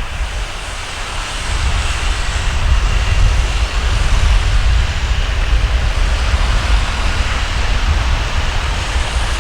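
Boeing 737-900ER jet engines on a landing pass, a steady rumble that grows louder about a second and a half in and holds.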